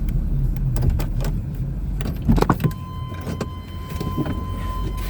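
A Chevrolet Suburban's engine running in the background, with a few knocks, then a loud clatter about halfway through. Right after the clatter a steady, high electronic tone comes on and holds.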